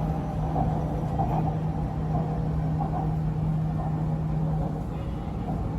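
Electric metro train running, heard from inside the car: a steady rumble with a constant low hum and fainter steady tones above it.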